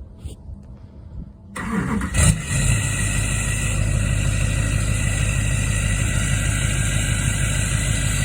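LMM Duramax 6.6-litre V8 turbodiesel cold-starting after a week of sitting: the starter cranks about a second and a half in, the engine fires within a second, then settles into a steady idle.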